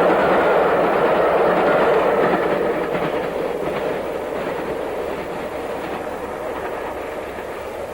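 A train hauled by a Stanier steam locomotive running past, its wheels clattering over the rail joints, the sound fading steadily as it moves away.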